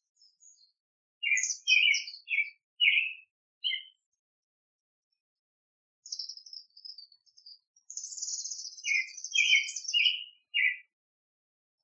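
Small songbirds chirping in two bursts of quick notes, the second with a high, fast trill.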